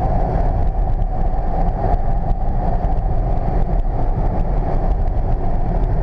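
Steady in-cabin noise of a 1999 Volvo S80 T6 driving: a low engine and road rumble under an even rush of air and tyre noise.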